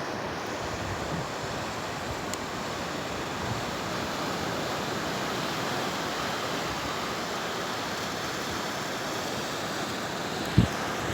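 Ocean surf breaking and washing on a sandy beach, a steady rush of waves. A brief thump near the end.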